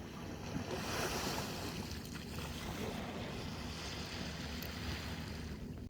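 Wind and water noise aboard a small boat on open water: a steady rush of wind over the microphone with waves lapping and a low rumble beneath.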